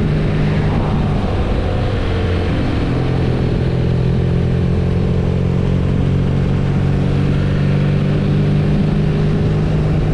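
BMW R nineT air/oil-cooled boxer twin engine running under way on the road, with wind and tyre noise. Its note wavers and shifts about two to three seconds in, then holds steady at cruising speed.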